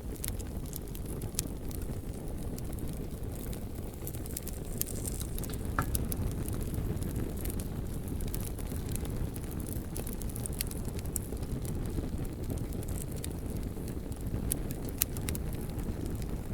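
Campfire burning and crackling, with irregular sharp pops and snaps scattered through, over a steady low rumble.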